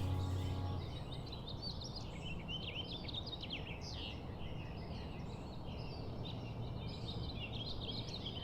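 Small birds chirping in quick, short calls over a faint steady background hiss; the last held notes of a music track fade out in the first second.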